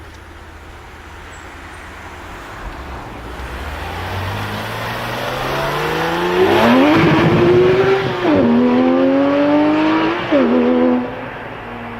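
Porsche 997 GT3 RS 4.0's naturally aspirated flat-six, through an Akrapovic exhaust, accelerating hard as it approaches. Its loud note climbs in pitch, drops and climbs again at two upshifts, then fades as the car moves away.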